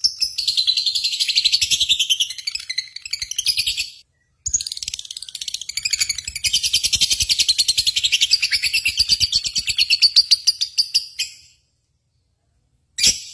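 High-pitched bird chirping in two long, fast trills of rapidly repeated notes: the first stops about four seconds in, the second starts half a second later and runs to about eleven seconds, followed near the end by a short separate chirp.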